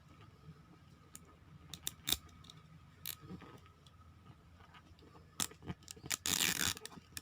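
Peeling and handling the plastic wrapping of a toy surprise ball: a few scattered small clicks and taps, then a burst of plastic crinkling in the last second or so.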